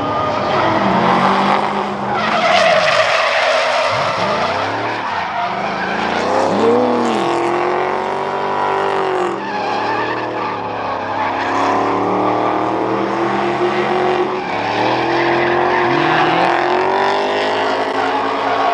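Drift cars' engines revving hard, the pitch sweeping up and down again and again as the throttle is worked, over continuous tire screeching as the cars slide sideways.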